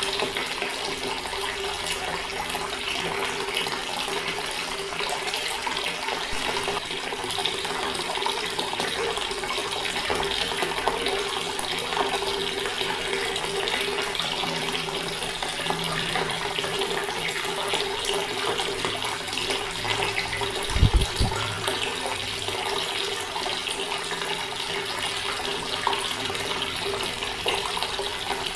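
Water running steadily from a tap. A brief low thud comes about two-thirds of the way through.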